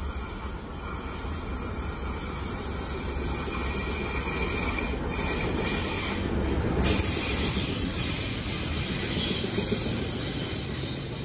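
KTMB Class 26 diesel-electric locomotive hauling a train of cement wagons into a station: a steady rumble of the locomotive with the wheels running over the rails.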